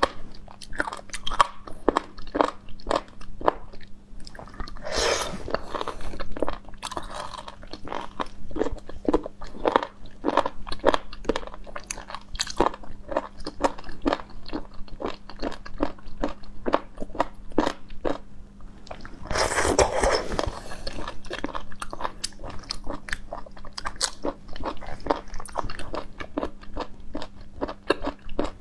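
Close-up chewing and biting of ready-to-eat sea cucumber slices, which give a crisp texture: many irregular sharp crunches, with two longer, noisier stretches of chewing about 5 seconds in and again about 20 seconds in.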